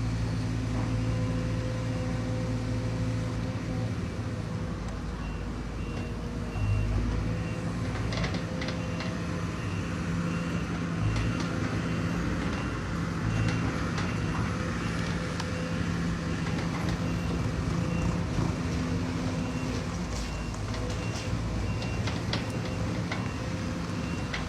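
Heavy-equipment diesel engines running steadily, with a high warning beeper starting about five seconds in and repeating evenly until the end, typical of a reversing or travel alarm. A few knocks stand out over the engine noise midway.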